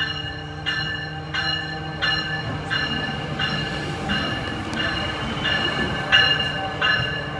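Amtrak ACS-64 electric locomotive pulling its passenger cars past at low speed, its bell ringing steadily at about one and a half strokes a second over the hum of the locomotive and the rumble of the wheels.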